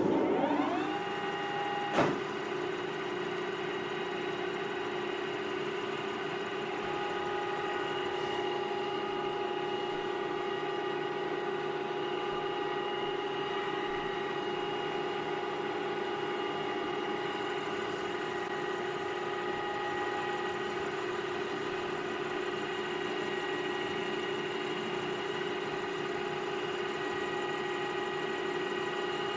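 Metal lathe starting up, its motor spinning up to speed over about a second and then running steadily with a whine, with a sharp click about two seconds in.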